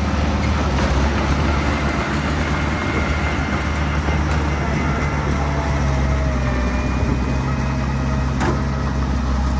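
Diesel engine of heavy earthmoving machinery running steadily, a low even drone, with a single sharp knock near the end.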